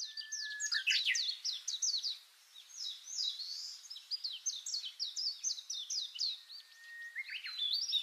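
Songbirds singing: a dense run of quick, high, downward-sliding chirps, with a long steady whistle at the start and another about six seconds in, each breaking into a flurry of quick notes.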